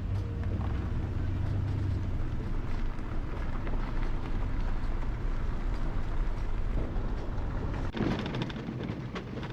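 Pickup truck carrying a camper, driving with a steady low engine and road rumble; the noise turns coarser and brighter about eight seconds in.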